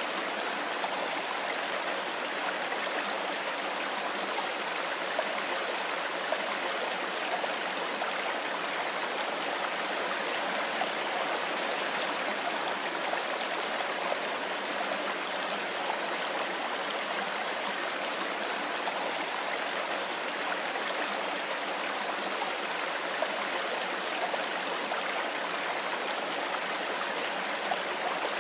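Mountain river running steadily over stones, an even rushing babble of water.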